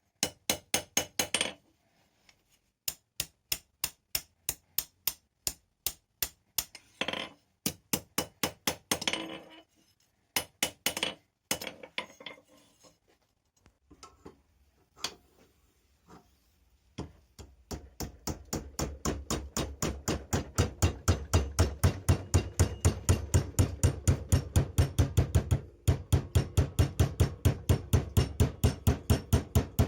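Hammer blows ringing on hot steel rebar at the anvil. The first half comes in short irregular groups with pauses. From just past halfway it becomes a fast, even run of about three blows a second over a low steady hum.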